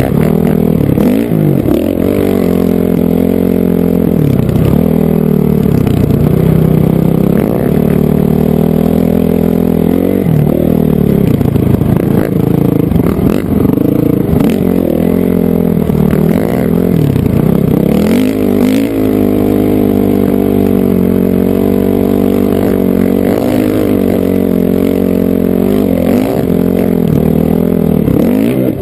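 Honda CRF450R single-cylinder four-stroke dirt bike engine under way, its pitch rising and falling as the throttle is opened and rolled off, with short dips every few seconds.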